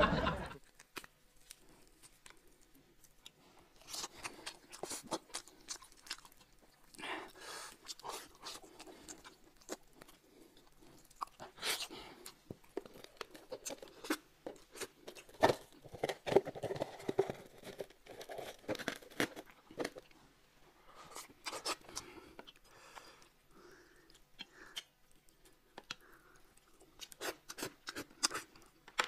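Close-up eating sounds of a man biting, tearing and chewing a roasted chicken leg, with irregular wet smacks and clicks and some finger licking.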